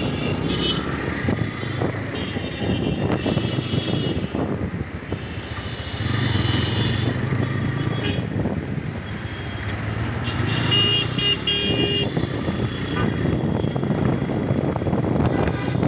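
TVS Raider 125's single-cylinder engine and exhaust running under way, its note rising and falling with the throttle. A horn beeps briefly a few times, most clearly about eleven seconds in.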